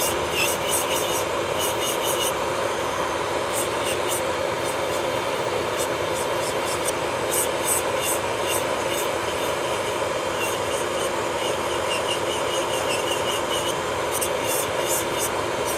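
Electric nail drill (e-file) running at a steady speed, its bit working on the nail with small scratchy ticks over the motor's steady whine.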